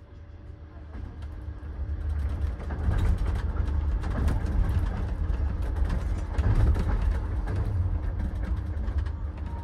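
A sleeper car's running noise heard from inside the compartment: a low rumble with quick rattling and clicking of the car's fittings. It grows louder over the first few seconds, then holds.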